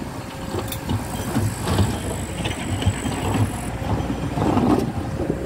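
A train running: a steady low rumble with scattered knocks.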